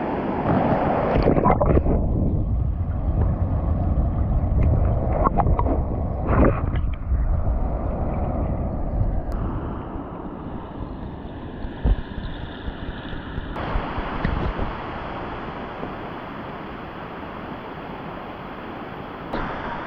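Steady rush of cascading waterfall water, with wind buffeting the microphone and rumbling heavily through the first half, easing after about ten seconds.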